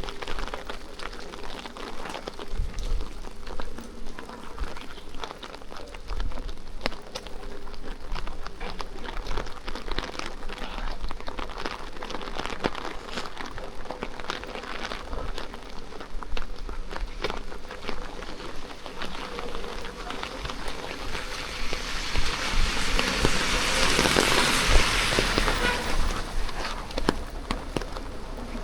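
Steady rain falling, with many drops striking close by. About three quarters of the way through, a swelling hiss rises and fades away, like a vehicle's tyres passing on the wet road.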